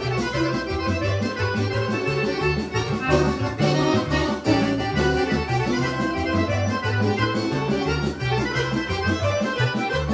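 Serbian folk band playing a kolo medley, with the accordion leading over a steady bass beat.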